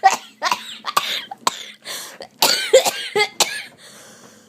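Excited corgi-terrier mix dog giving a run of short sharp huffs and snorts, then a few brief high whining calls about two and a half seconds in.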